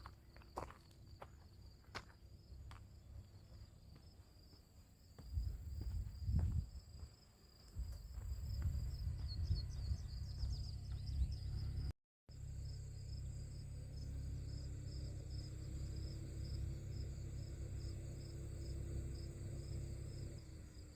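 Insects chirping in a steady, pulsing high trill, with a few sharp clicks in the first seconds. From about five seconds in, a loud low rumble comes in underneath and carries on, with a break of a fraction of a second near the middle.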